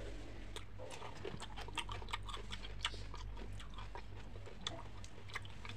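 Close-up chewing and biting of crunchy food: a quick, irregular run of wet crunches and mouth clicks. A steady low hum sits underneath.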